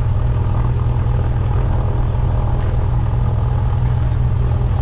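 Cessna 172's piston engine and propeller running steadily, a deep even drone with no change in pitch.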